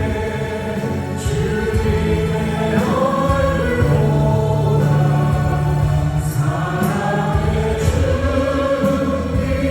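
Worship band playing with several voices singing a praise song: keyboards, drums and acoustic guitar under sustained sung lines, with cymbal strikes now and then.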